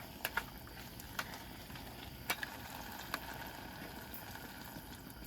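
Food sizzling in a pan as it is stir-fried, a steady hiss with a few sharp clicks of a utensil against the pan in the first few seconds.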